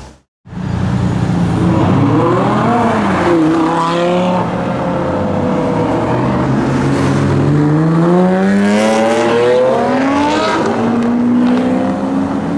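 Sports car engine accelerating hard, its pitch climbing and then dropping back several times as it shifts through the gears.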